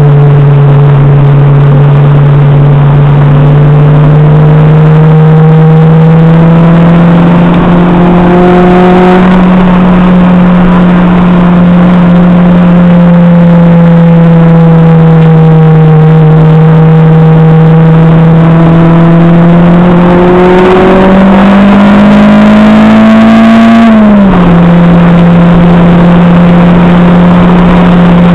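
Acura RSX Type-S's K20A2 2.0-litre inline-four running hard on a race track, heard from inside the cabin. The engine note holds fairly steady for a long stretch, climbs for a few seconds, then drops abruptly as the car shifts up a gear, and falls again near the end.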